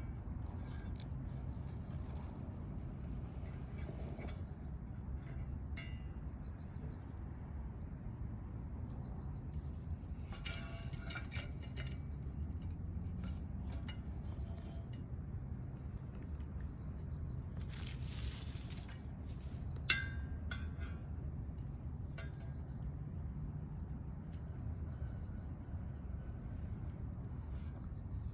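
Insects chirping in short repeated pulse trains, high-pitched, over a steady low rumble, with a few scattered crackles and a sharp click about twenty seconds in.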